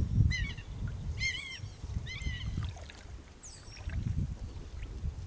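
Bird calls: three quick bursts of short chirps in the first two seconds, then a single falling whistle about three and a half seconds in, over a low, uneven rumble from the canoe on the river.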